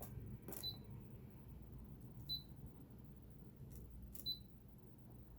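Light taps and three short high-pitched beeps from a Baby Lock Ellure sewing machine's touch screen, spaced well apart.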